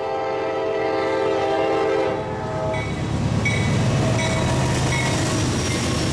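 Freight diesel locomotive's air horn sounding a chord of several steady tones, cutting off about two to three seconds in. The rumble of the passing train follows, with the locomotive's engine and a few short high squeals.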